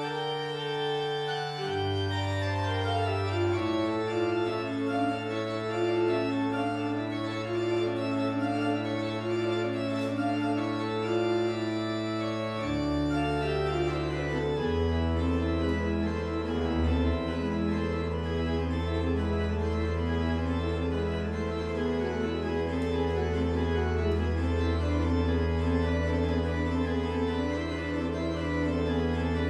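Church organ playing: long held bass notes that change only a few times, under moving chords and a melody above, the bass growing fuller about halfway through.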